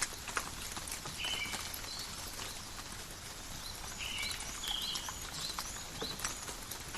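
Steady light rain falling in a forest, with individual drops pattering and ticking throughout. Several short, high chirps stand out about a second in and again from about four seconds on.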